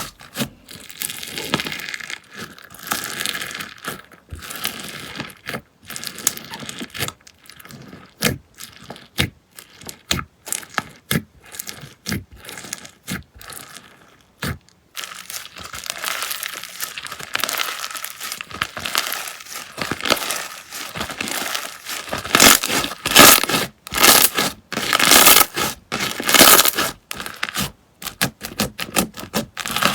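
Slime being pressed, squeezed and pulled by hand, giving a dense run of crackles, crinkly pops and sharp clicks, louder and busier in the second half.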